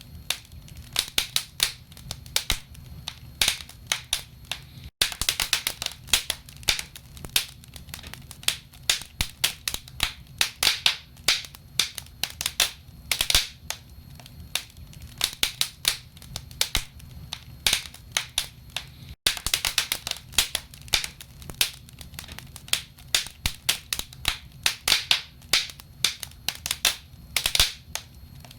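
Wood burning in a fireplace, crackling with many irregular sharp snaps and pops of the logs over a steady low rumble of the flames.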